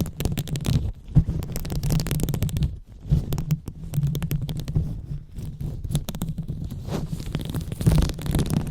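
ASMR 'brain massage' microphone rubbing: fingers rub and scratch directly on the microphone, giving a dense run of scratchy crackles over a low rumble.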